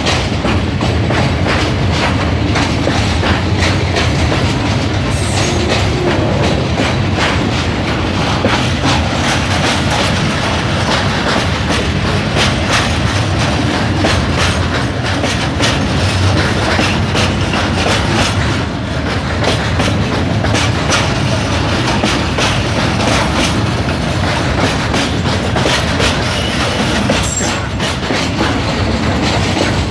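Freight train wagons rolling past close by, the wheels clattering over the rail joints in a steady, continuous stream of clicks over a low rumble.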